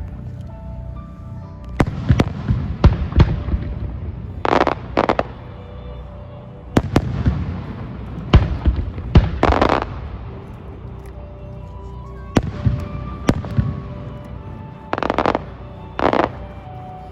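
Fireworks display shells bursting: a string of sharp bangs at uneven intervals with a low rumble between them, and several short hissing, crackling bursts.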